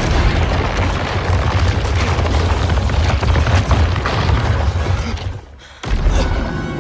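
Cinematic earthquake sound effects: deep continuous rumbling with heavy booms. The rumble falls away briefly about five seconds in, then crashes back in suddenly.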